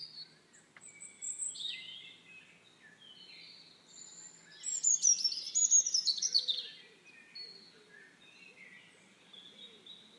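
Songbirds chirping and singing in short high calls, with a louder run of quick falling chirps about five to seven seconds in.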